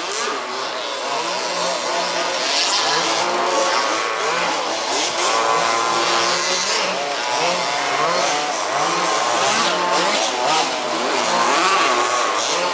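Several 1/5-scale two-stroke petrol RC buggy engines racing together, their overlapping pitches rising and falling as the drivers accelerate and back off.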